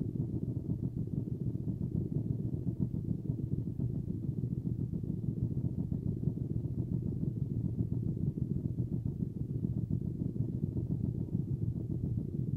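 Car engine idling, a steady low rumble heard from inside the cabin while the car waits in traffic.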